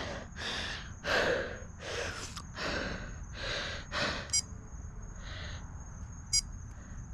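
A cyclist's heavy breathing after a hard ride: about seven deep, audible breaths in the first four seconds, then easing off. Two short high electronic beeps come later, about a second and a half and two seconds apart.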